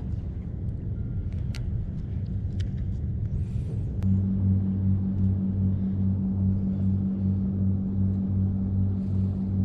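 Low rumble with a few light clicks, then about four seconds in a louder engine hum starts abruptly and runs on steadily, pulsing slightly.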